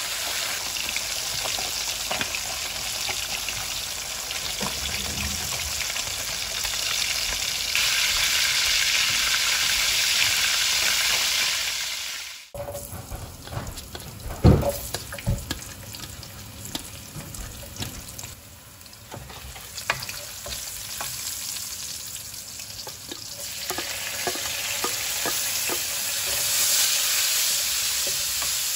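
Whole carp deep-frying in hot oil in a frying pan: a dense, steady sizzle that grows louder about eight seconds in. After a sudden break about halfway, sliced garlic sizzles more gently in oil, with one sharp knock and scattered clicks of the wooden spatula against the pan. The sizzle builds again near the end as green and red chillies are added and stirred.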